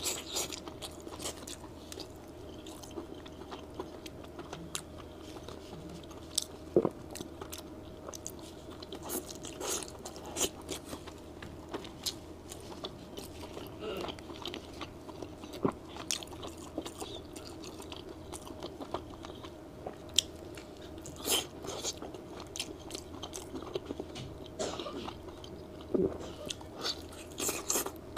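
Close-miked biting and chewing of red-braised pork belly (hong shao rou): irregular sharp mouth clicks and smacks, over a faint steady hum.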